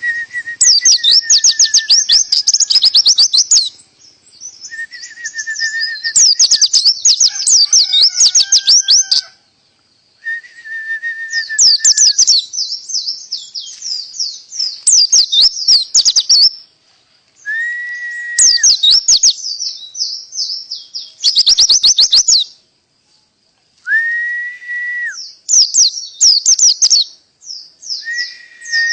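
Oriental white-eye (pleci) singing canary-style 'tembakan' song: repeated bursts of very fast, high trilled notes, each burst a few seconds long with brief pauses between, several of them opening with a held, steady whistle.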